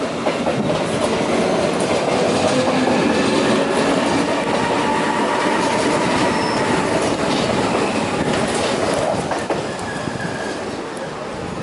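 Matterhorn Gotthard Bahn metre-gauge electric train rolling slowly past, its wheels clattering over rail joints and points, with a brief high wheel squeal around the middle. The noise is loudest in the middle and eases off near the end as the train pulls away.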